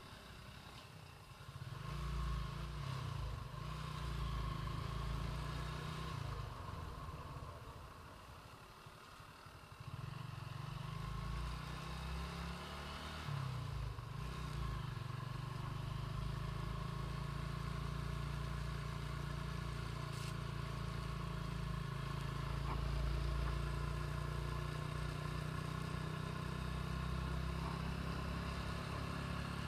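Motorcycle engine heard from the rider's own bike while riding. It eases off from about six to ten seconds in, then picks up again and runs steadily.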